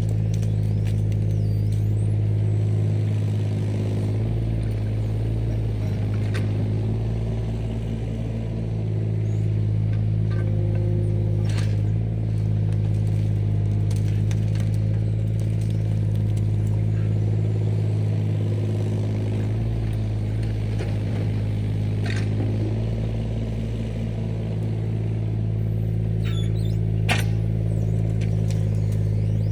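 Diesel engine of a land-clearing machine (skid steer, mini excavator or dump truck) running at a steady speed, with a few sharp knocks and clanks from the work.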